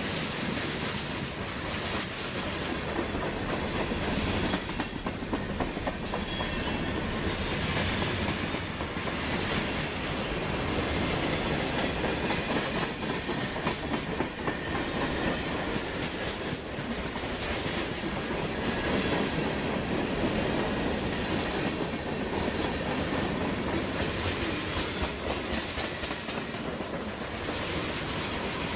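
Freight train cars rolling steadily past, their steel wheels clacking over the rail joints.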